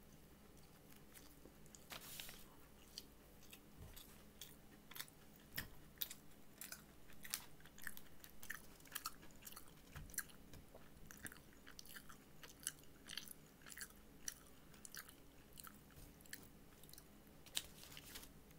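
A person chewing a mouthful of fried chicken sandwich close to the microphone: quiet, irregular mouth clicks and small crunches, many a second, with a few louder crunches.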